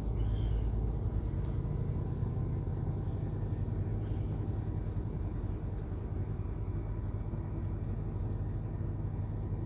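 Semi truck's diesel engine running steadily, heard from inside the cab as a low rumble.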